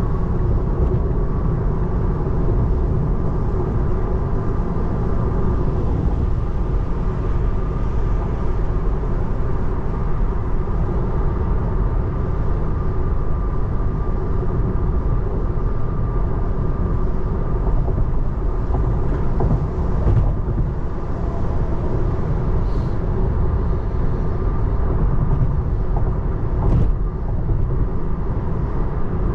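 Steady road and tyre noise heard inside the cabin of a 2024 Tesla Model 3 Long Range AWD driving on rain-wet roads, with a faint steady whine under it. A couple of brief knocks come about two-thirds of the way in and again near the end.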